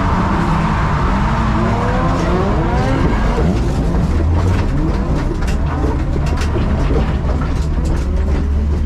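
Several drift cars' engines revving up and down together over tire noise on a wet track, with a run of sharp crackles in the second half and a deep steady engine drone building from about halfway through.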